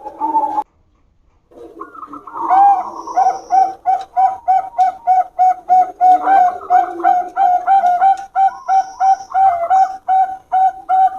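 Perkutut (zebra dove, Bangkok-bred line) cooing in a long, rapid run of short repeated notes, about four a second, after a short break about a second in.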